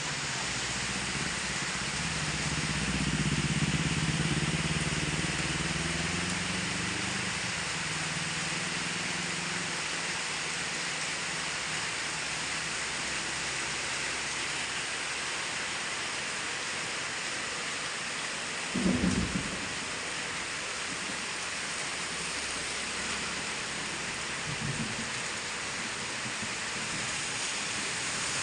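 Steady rain, with a low rumble in the first few seconds and a short thump about two-thirds of the way through.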